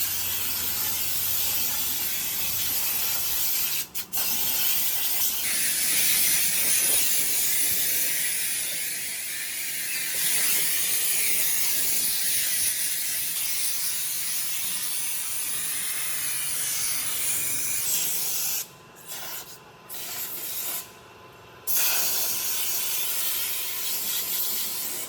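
High-pressure washer spraying water onto the car, a steady hiss that stops briefly about four seconds in and cuts in and out a few times near the end as the trigger is released and squeezed again.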